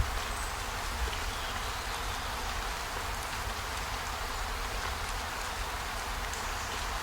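Steady rain hiss, with a couple of faint clicks in the first second.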